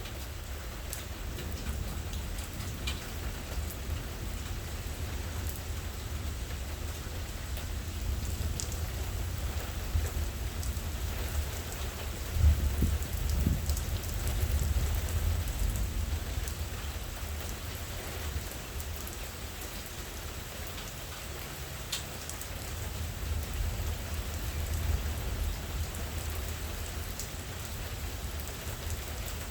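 Steady rain falling, with scattered drops ticking close by. A low rumble of thunder swells near the middle and fades over a few seconds.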